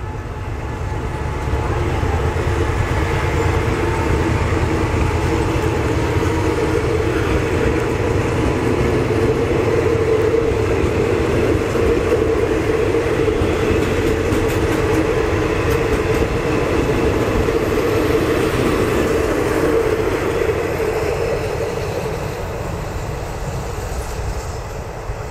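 SRT QSY diesel-electric locomotive No. 5211 hauling a passenger train out of the station: a steady engine drone over the rumble of coaches rolling on the rails. It swells about two seconds in and fades over the last few seconds as the train pulls away.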